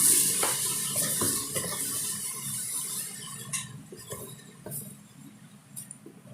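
Crinkling and rustling of packaging with scattered light clicks and knocks as small items are handled. The crinkling is loudest at the start and fades over the next few seconds.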